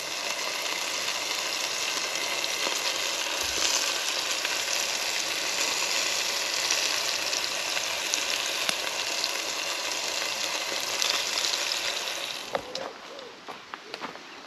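Steady sizzling hiss of food cooking in a hot cast-iron Dutch oven over a campfire, with faint crackles scattered through it. It fades away about twelve and a half seconds in.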